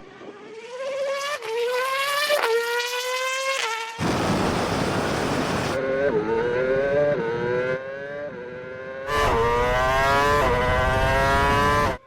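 Formula 1 car's engine at full acceleration, its pitch climbing and dropping sharply at each upshift, several gear changes in quick succession. Stretches of loud rushing noise come in between the pulls.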